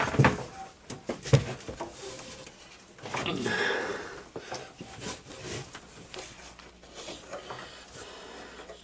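Scattered metallic clicks and knocks of a spring being stretched and hooked into a mower's brake linkage by hand, with one sharp knock about a second and a half in.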